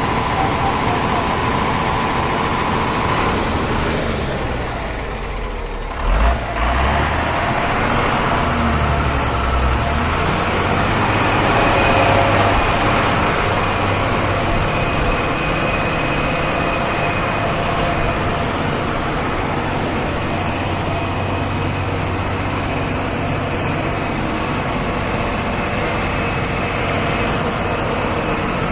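Heavy truck's diesel engine running hard as the truck takes a run-up at a steep uphill, with a short loud low thump about six seconds in. After that the engine pulls steadily under heavy load.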